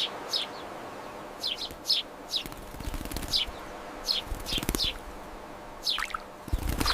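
Wild birds calling: about a dozen short, high chirps that each fall in pitch, some in quick pairs, over a steady hiss of outdoor ambience.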